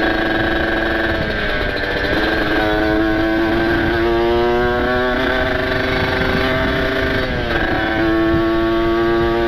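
Kawasaki Ninja RR's ported two-stroke single-cylinder engine running hard under way, its pitch climbing slowly. The note dips briefly twice, about two seconds in and again a couple of seconds before the end.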